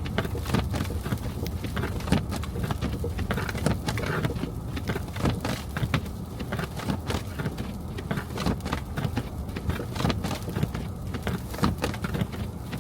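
A car driving through a snowstorm: a steady low road rumble under constant, irregular crackling and patter.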